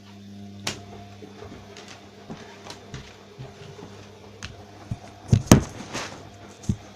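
Bosch washing machine running a cotton wash: a steady low motor hum with scattered knocks and clunks from the drum. A louder cluster of knocks comes about five and a half seconds in.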